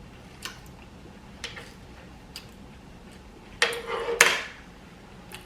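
Cutlery and dishes clinking during a meal: three light taps about a second apart, then a louder clatter about three and a half seconds in.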